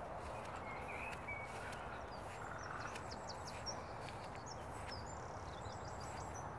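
Small birds chirping and twittering in short, high notes scattered through, over a steady low outdoor hiss.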